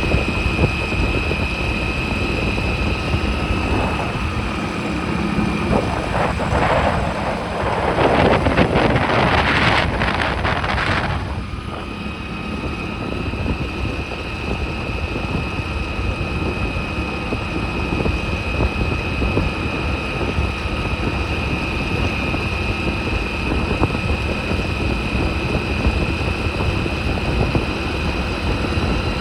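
Motorcycle running steadily on the move, with a steady high whine and wind buffeting the microphone. A louder rushing noise swells about six seconds in and lasts about five seconds.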